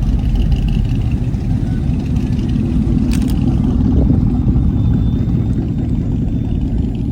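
Steady low rumble of vehicle noise, with a brief click about three seconds in.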